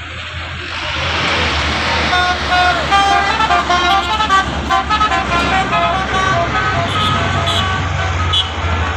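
Canter truck engine running steadily, with a quick tune of short high notes played over it from about two seconds in.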